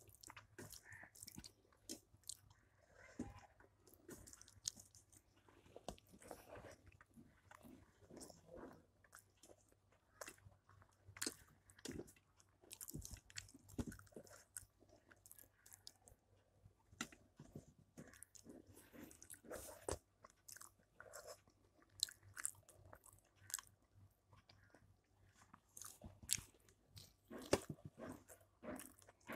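Close-up chewing and mouth sounds of a person eating rice and curries with his hand, with his fingers mixing food on a stainless steel plate; many irregular sharp clicks and smacks.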